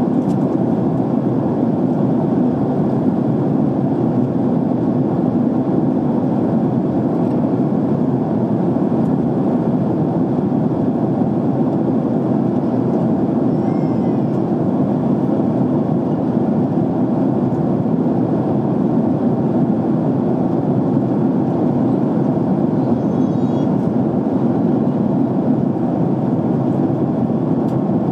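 Steady cabin noise of a jet airliner in flight: an even, unbroken rush of air and engines heard from inside the passenger cabin.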